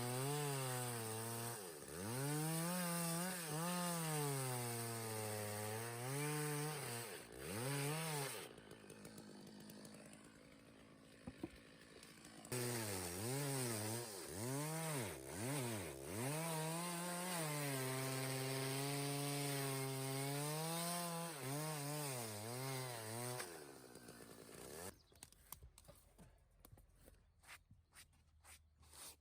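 Petrol chainsaw cutting Leylandii timber, its engine speed rising and dipping as it works under load. It drops away for about four seconds in the middle, then cuts again and stops a few seconds before the end.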